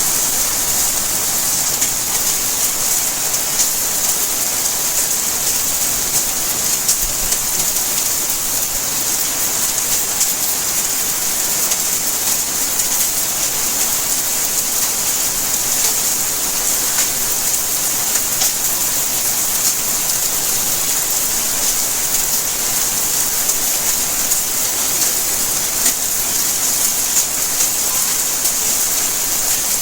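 Steady rainfall: a dense, even hiss of rain, with the patter of individual drops striking surfaces throughout.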